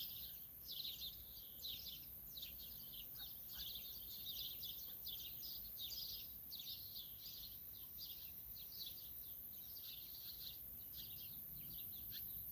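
Faint chorus of small birds chirping: many short, high chirps overlapping continuously, over a steady faint high hiss.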